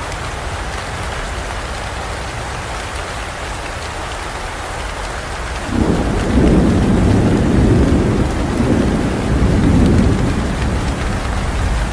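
Steady heavy rain falling, with a thunderclap breaking in about halfway through as a sudden low rumble that rolls on in swells for several seconds before fading back under the rain.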